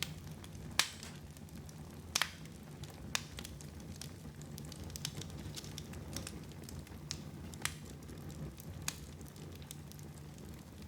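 Wood fire burning in a fireplace: a low steady rumble with scattered sharp crackles and pops, the loudest about a second and two seconds in.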